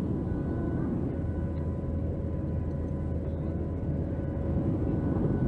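Inside the cabin of a Boeing 737 jetliner climbing out after takeoff: a steady engine drone and airflow rush, with a faint steady whine on top.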